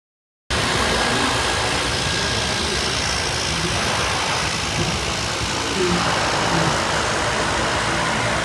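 A steady engine running, heard through a constant rumble, starting abruptly about half a second in after dead silence.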